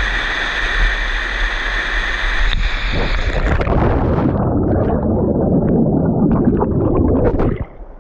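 Rushing, splashing water of a waterfall, a steady noise that changes character abruptly about two and a half seconds in, then cuts off shortly before the end.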